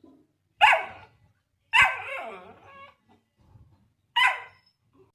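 A dog barking three times: a short bark about half a second in, a longer bark near two seconds that trails off falling in pitch, and a last short bark about four seconds in.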